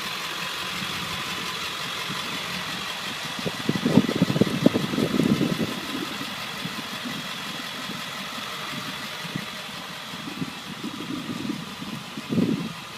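2000 Ford F250's 7.3L Power Stroke V8 turbo diesel idling steadily and smoothly, with a steady whine over the running. Irregular low thumps come in a cluster about four seconds in and again near the end.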